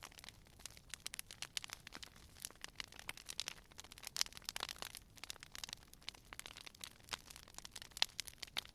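Wood fire crackling: a dense, irregular run of small snaps and pops with a few sharper cracks, over a faint hiss of burning.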